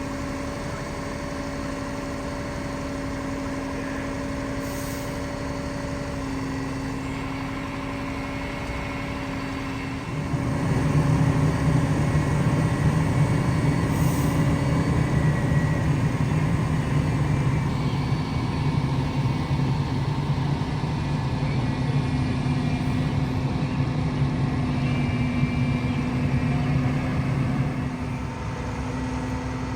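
A heavy engine running steadily, picking up and getting louder about ten seconds in, then easing back a little near the end.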